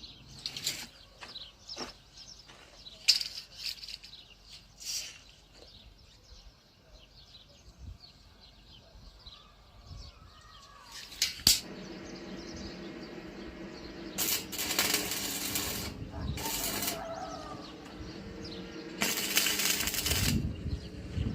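Light metal clinks and knocks, then a power tool's motor starts running steadily, with several loud bursts of harsh noise as it works on steel.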